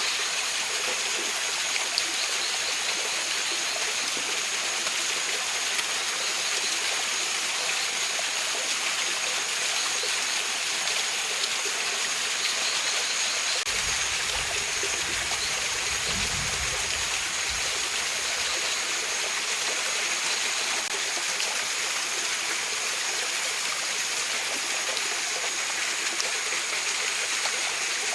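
Mountain stream rushing steadily over rocks, an even hiss of running water, with a thin steady high-pitched tone above it. A low rumble rises for a few seconds about halfway through.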